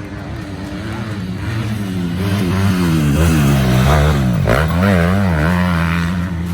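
Motocross dirt bike engines revving, the pitch rising and falling as the throttle is worked, louder in the middle, with a sharp drop and quick pickup in pitch about four and a half seconds in.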